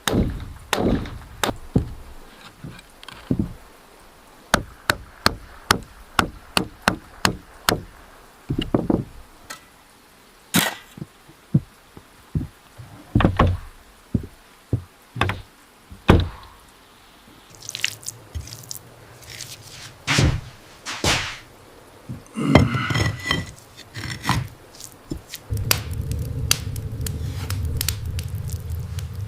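A series of sharp wooden knocks and thunks, hand tools striking timber in uneven runs, at times more than one a second. Some scraping sounds follow, and near the end a steady low hum starts.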